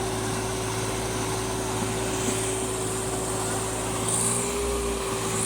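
Tractor engine running at a steady speed, with a constant whine over a low drone.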